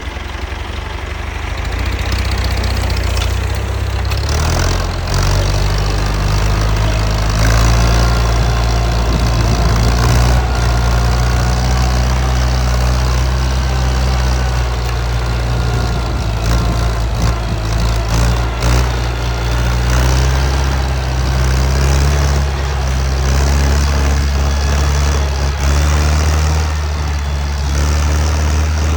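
Tractor engine running steadily during ploughing, a loud low drone that grows louder about four seconds in.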